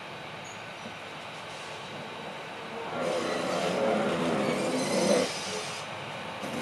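Hitachi Class 810 bi-mode train rolling slowly over curved track, its wheels and running gear rumbling on the rails. The noise grows louder for about two seconds in the middle as the unit draws near.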